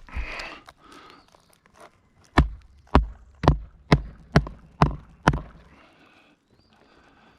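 Roofing hatchet nailing down an asphalt shingle: seven sharp hammer blows about two a second, after a brief rustle of the shingle being handled at the start.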